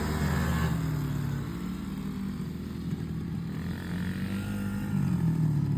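Small pit-bike and mini-bike engines idling, their pitch wavering slightly while they wait to take off.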